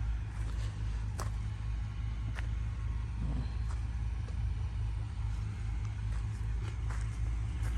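Fiat 480 tractor's diesel engine idling steadily with a low, even rumble, with a few faint clicks over it.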